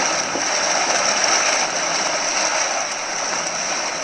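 A herd of wildebeest splashing and scrambling in river water against a steep bank, a dense, steady clatter and churn of many bodies and hooves.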